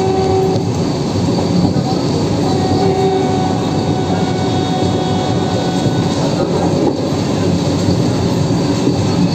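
Vande Bharat Express electric trainset running, a steady loud rail rumble with a faint whine that comes and goes, and people's voices underneath.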